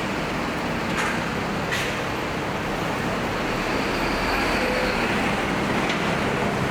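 Steady street traffic noise of passing vehicles and engines, with a few short clicks.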